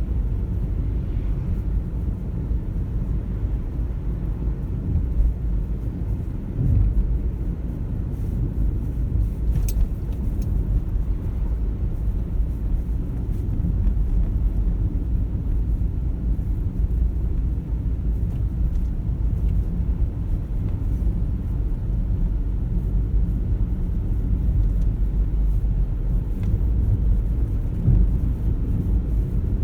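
Car driving along at a steady pace: low, even rumble of engine and tyre noise.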